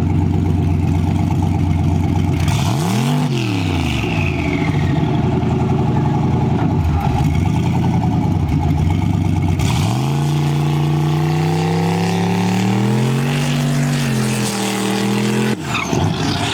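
Turbocharged LS V8 engine running loud and lumpy. About three seconds in it is revved up and straight back down, followed by a falling turbo whistle. From about ten seconds in the revs climb and are held high, wavering, then fall away suddenly near the end.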